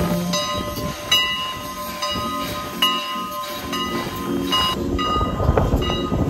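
Steam train on the Strasburg Rail Road running close by, with steady metallic ringing tones over a rumble and low thumps building near the end.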